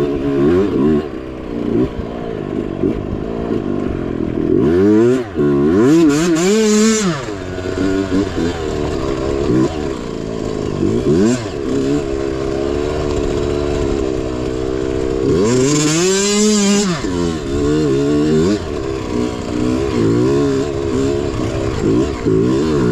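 Mini bike engine revving up and down, its pitch rising and falling again and again under the throttle. Twice, about five and fifteen seconds in, a louder surge rises and falls with a hiss over it.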